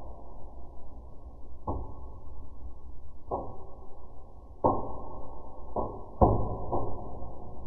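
Fireplace fireworks burning, giving off sharp pops and cracks at irregular intervals of a second or so, about six in all, the loudest near the end, over a steady low crackle. The recording is slowed to half speed, so the pops sound deep and dull.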